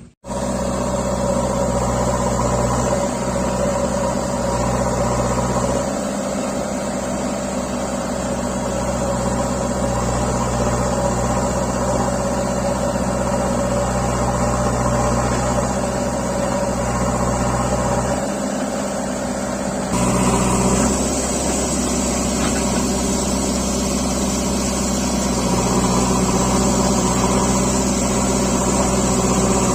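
Heavy diesel engine of a tractor or backhoe loader running at a steady speed, with an abrupt change in the sound about two-thirds of the way through.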